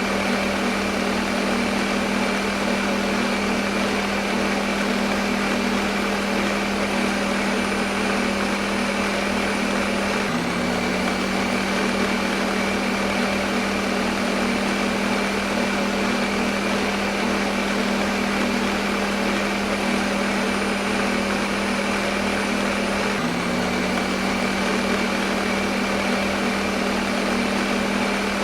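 Electric kitchen blender motor running steadily with a constant hum and whir. Its pitch dips slightly for a moment twice, about ten seconds in and again some thirteen seconds later.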